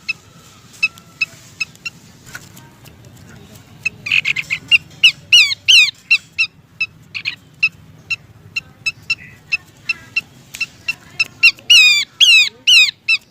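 Pelanduk semak babbler calls played as a bird lure: a steady series of short, sharp chip notes. Louder clusters of downslurred whistles come about four to six seconds in and again near the end.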